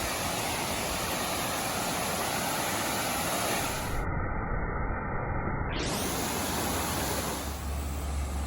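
Waterfall rushing: a steady, even hiss of falling water, with a low rumble coming in near the end.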